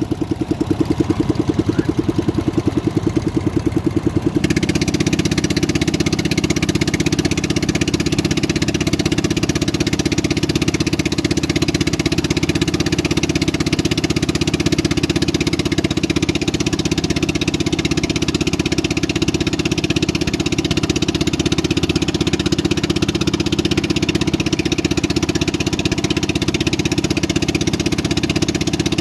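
A boat's motor running steadily with a fast even pulse; about four seconds in a louder rushing noise joins it and continues.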